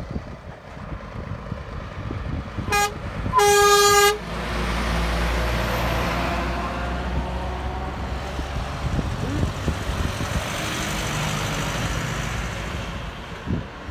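Truck horn sounding a short toot and then a longer, louder blast, followed by the lorry driving past with its engine rumble and road noise swelling and fading.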